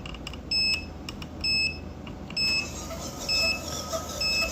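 An electronic beeper sounding a short, high, steady beep about once a second, five times in all. A fainter steady whine joins under the beeps in the second half.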